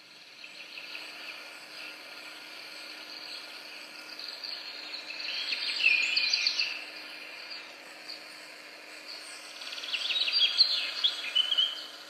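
Birds singing in rapid trilled, chirping phrases, louder around six seconds and again around ten to eleven seconds, over a faint steady low hum.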